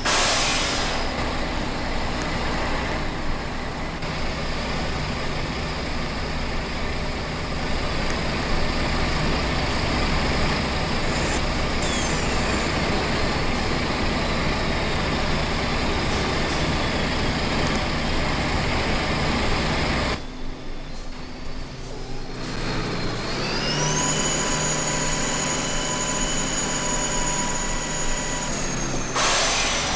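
Truck engine and road noise running steadily while driving, dipping briefly about two-thirds of the way in. After that a high whine rises and then holds steady.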